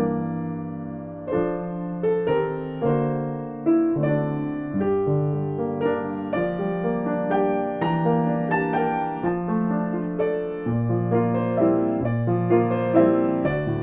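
Solo piano music: notes and chords struck one after another, each left to ring and fade.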